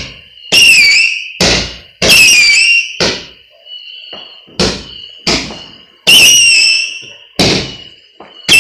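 Cake firework firing shot after shot, about one loud bang a second. Several bangs carry a short whistle that falls in pitch.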